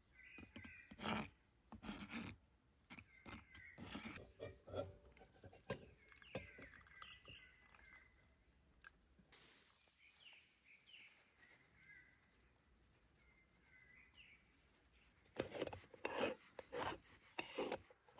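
Small birds chirping in the background, with scattered light clicks, knocks and rubbing sounds from close by and a run of louder knocks near the end.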